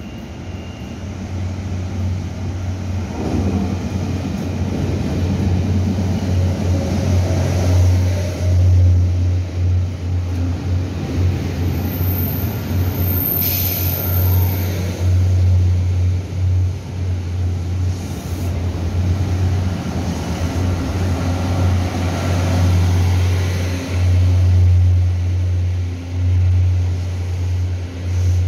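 Electric passenger train pulling into an underground station platform and slowing: a loud, steady low rumble and hum of the cars rolling past, echoing off the platform. There is a brief high-pitched squeal about twelve to fourteen seconds in.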